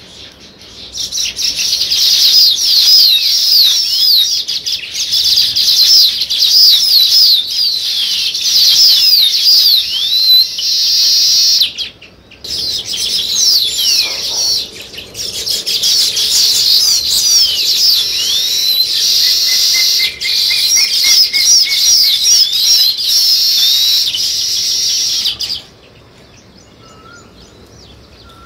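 A flock of small birds chirping densely, many quick high chirps overlapping. It starts about a second in, breaks off briefly near the middle, and cuts off suddenly a few seconds before the end, leaving only a few faint calls.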